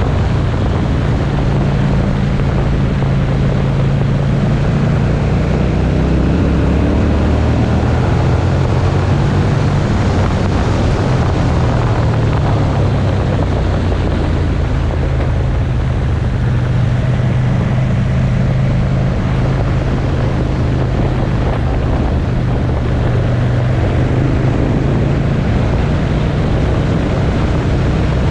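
Motorcycle engine running on the road, its note climbing a few seconds in, with steady wind rush over the microphone.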